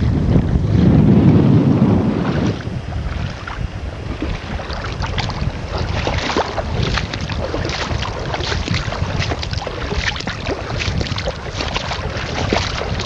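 Strong wind buffeting the microphone for the first couple of seconds, then irregular splashing and crackling of shallow sea water over a steady wind rush, as someone wades while towing a kayak.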